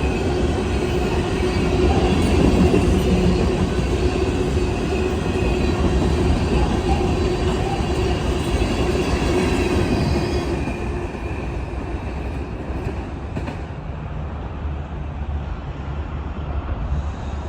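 A train rolling past: steel wheels running on the rails with a steady squeal over the rumble, dropping somewhat quieter about ten seconds in.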